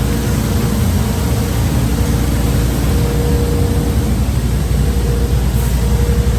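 Automatic car wash tunnel equipment running: a loud, steady rush of noise over a low rumble, with a faint steady hum that fades out for a moment near the end.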